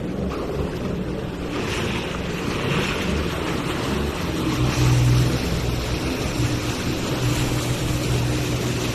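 A motorboat engine runs steadily while towing a banana boat, over rushing water and spray, with wind buffeting the microphone. The engine hum grows stronger about halfway through.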